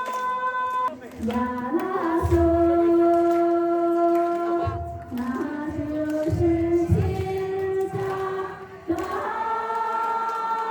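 Singing voices holding long notes that step from pitch to pitch, with a few low thumps underneath.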